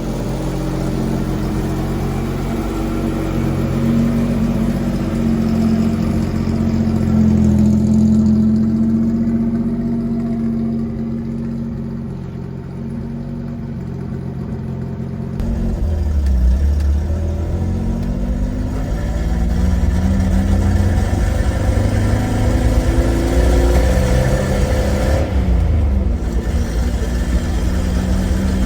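1993 Toyota pickup's engine running through a homemade stainless cab-back exhaust with a budget muffler. The note is steady at first; after a cut about halfway through, it becomes a deeper rumble that rises and falls in pitch as the engine revs.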